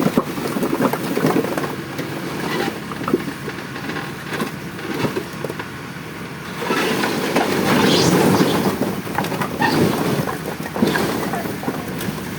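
Mahindra Arjun 605 DI tractor's diesel engine running while hauling a fully loaded trolley, with rattling clicks and wind noise on the microphone. The noise drops for a few seconds, then grows louder again past the middle.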